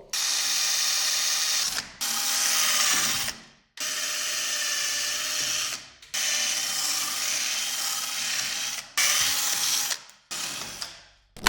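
Power drill drilling out the rivets of a motorcycle exhaust's end cap, in about six short runs of one to three seconds with brief pauses between, its pitch holding steady while it cuts.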